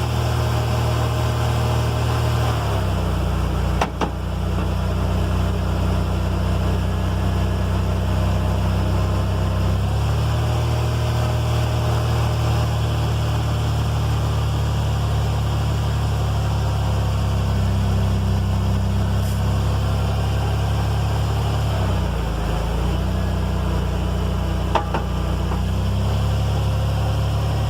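First-generation Toyota Tacoma running with a steady low drone, with two sharp clunks from the rear differential about twenty seconds apart. The clunk comes from a broken ring and pinion gear, whose broken teeth the owner found lying in the bottom of the housing.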